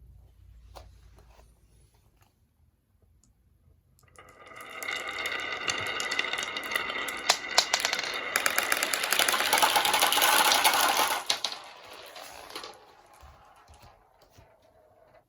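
Marbles rolling and clattering down a wooden ramp: a dense rattle of many small clicks that starts about four seconds in, grows louder, then dies away about three seconds before the end.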